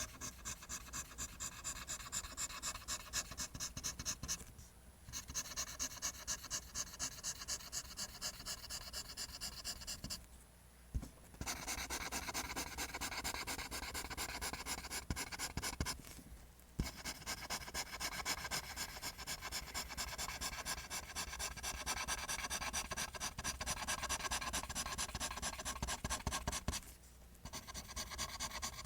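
Pencil scratching across paper in quick back-and-forth line strokes, about three strokes a second, stopping four times for about a second.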